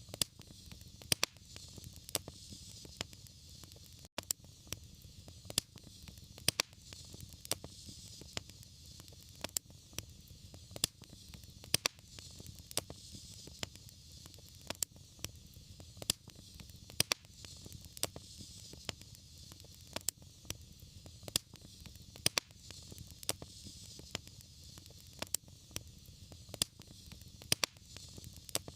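Wood fire burning with a steady hiss and frequent sharp crackles and pops, several a second at irregular intervals.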